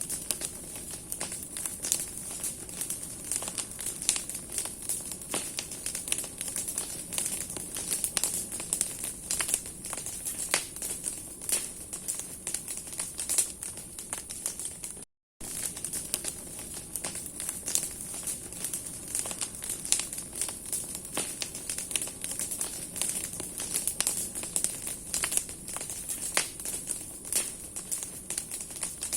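Large bonfire of branches burning, the wood crackling in a dense, unbroken run of sharp snaps and pops over a steady hiss. The sound cuts out for a moment about halfway through.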